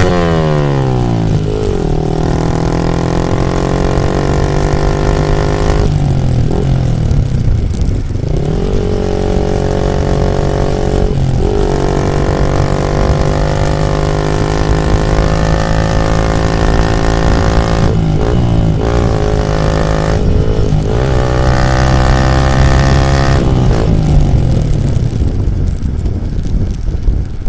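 Yamaha MT-15 V2's single-cylinder engine through an Akrapovic full exhaust system, ridden at steady revs. The note falls sharply at the start as the throttle closes, then holds with a series of brief dips and recoveries as the throttle is rolled off and back on, and it fades near the end.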